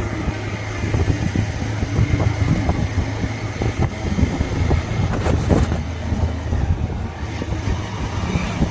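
Motorcycle engine running steadily while riding, with a constant low hum and gusty wind noise on the microphone.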